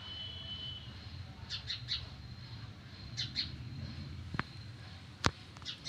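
Small birds chirping in quick clusters of two or three short high notes, several times, over a steady low background rumble. A sharp click about five seconds in is the loudest sound.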